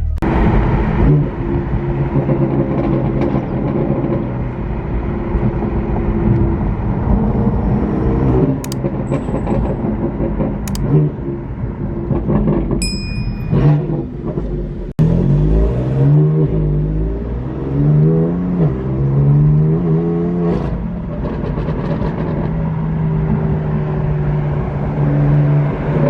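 Performance car engines idling and revving through their exhausts. In the second half the engine note climbs and falls several times in quick revs, then settles into a steady idle. A brief high-pitched beep sounds about halfway through.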